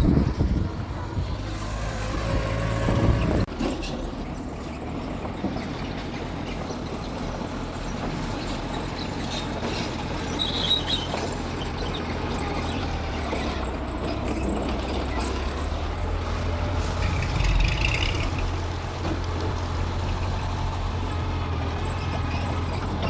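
Mitsubishi G2 bulldozer's diesel engine running steadily, louder for the first few seconds, with a couple of brief higher squeaks.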